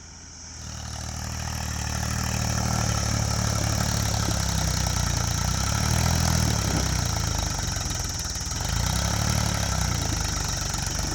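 Tractor's diesel engine coming up to a steady, labouring run about half a second in, its note wavering slightly as it works under load to climb onto a truck. A steady high-pitched hiss runs underneath.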